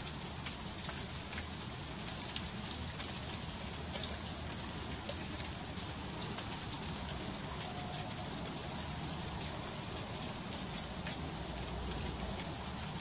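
Freezing rain falling on icy surfaces: a steady hiss made of many fine, rapid ticks of ice pellets and drops.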